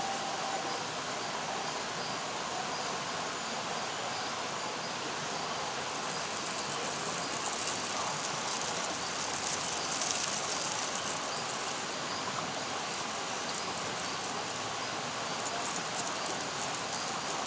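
Outdoor nature ambience: a steady hiss, joined about six seconds in by dense high-pitched insect chirring that comes and goes in patches later on.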